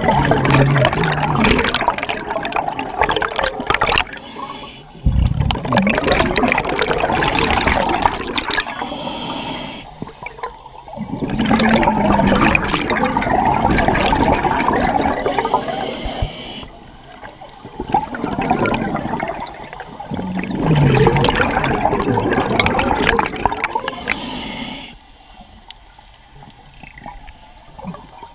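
A scuba diver breathing through a regulator underwater: about five long rushes of exhaled bubbles a few seconds each, with quieter pauses between them for the inhale.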